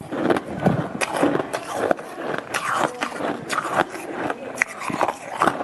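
A person biting and crunching frozen shaved ice, in quick irregular crunches several times a second.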